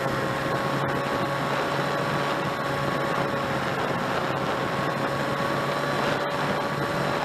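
HobbyKing Drifter model plane's electric motor and propeller whining at a steady throttle, with rushing wind noise.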